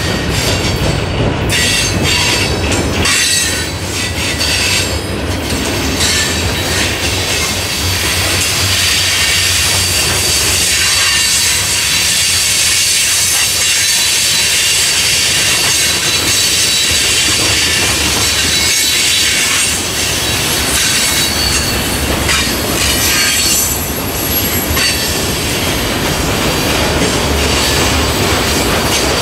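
A train rolling past with its steel wheels squealing on the rails: a high, steady squeal over the continuous low rumble of the cars.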